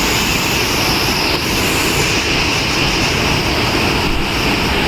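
Loud, steady rush of a mountain waterfall and stream pouring over rocks.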